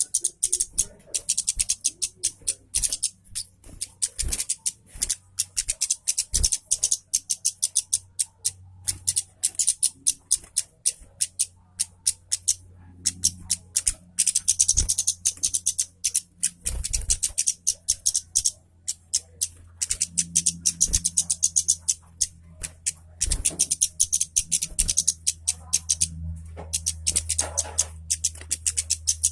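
Kemade kepala merah songbird in full song: long runs of rapid, high twittering and chattering notes in phrases broken by short pauses. A low steady hum sits underneath and gets stronger past the middle.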